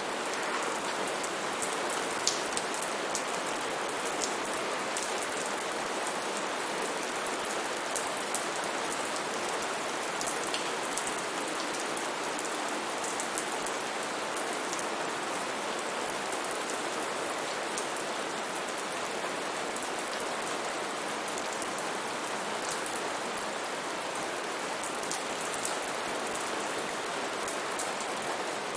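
Steady heavy rain falling in a rainforest, an even hiss with scattered sharper drop ticks.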